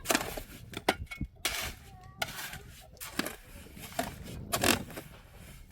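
Irregular scraping and knocking strokes of hand tools, about six in a few seconds, with faint voices between them.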